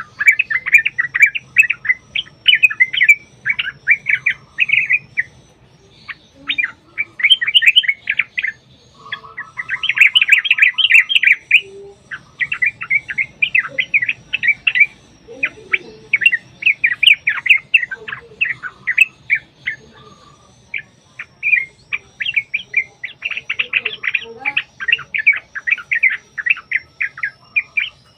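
Yellow-vented bulbul (trucukan) singing long runs of fast, chattering notes, phrase after phrase with short breaks. This is the long, rapid 'ropel' song used as a lure to set other bulbuls calling.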